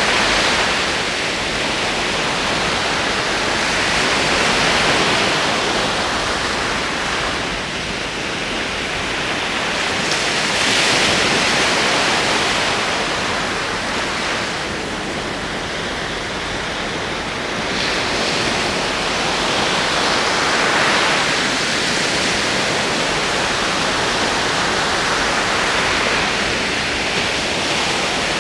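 Ocean surf: waves rolling in and washing up as a steady rush of water that swells and eases every few seconds.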